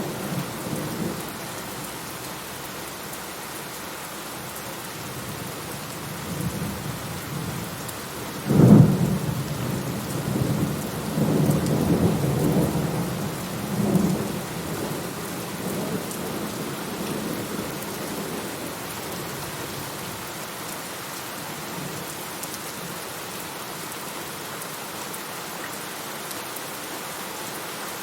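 Steady rain falling, with thunder: a loud clap about a third of the way in that rolls on in low rumbles for several seconds before dying away, leaving the rain alone.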